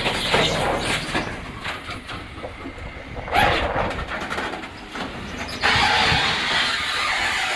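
Rubbish truck at work: knocks and clatter, a short loud rushing burst about three seconds in, then a steady rushing noise from about six seconds in.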